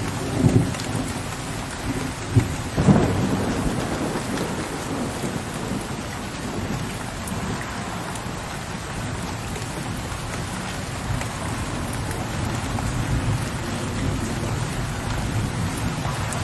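Steady rain with low rumbles of thunder. The rumbles swell about half a second and about three seconds in, then ease back under the rain.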